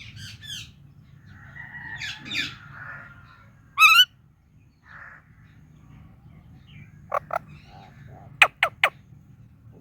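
Indian ringneck parakeet calling: short squawks and warbling chatter, one loud squawk about four seconds in, and a quick run of sharp chirps near the end. A faint steady low hum lies underneath.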